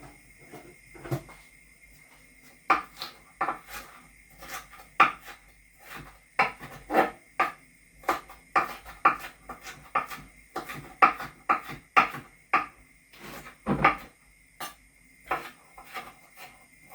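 Knife chopping a hot pepper on a wooden chopping board: sharp, irregular knocks, about one or two a second, starting a couple of seconds in.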